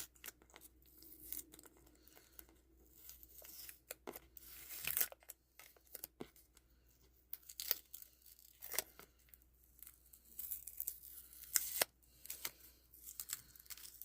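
Paper or plastic packaging being handled, tearing and crinkling in short, irregular bursts.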